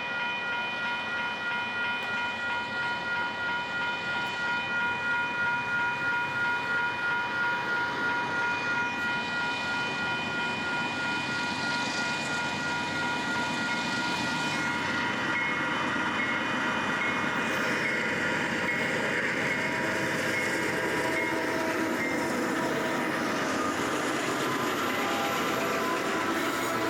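A train running past on the Union Pacific line, a steady rush of noise with a rhythmic pulse. Several steady high ringing tones sound through the first half and shift to other pitches later.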